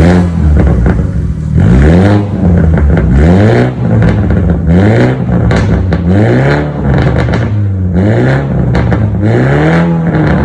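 BMW 430i's B48 2.0-litre turbocharged four-cylinder engine, breathing through an Fi valved aftermarket exhaust, revved over and over, its pitch rising and falling about every second and a half.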